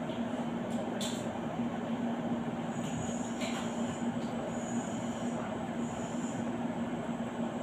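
Steady mechanical hum with a constant low tone over an even running noise, and a few faint clicks.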